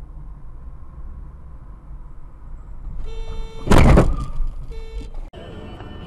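Steady low vehicle road noise, then a sudden very loud crash lasting about half a second a little past the middle: a vehicle collision heard from a car's dashcam. A steady tone sounds around it, and the sound cuts off abruptly near the end.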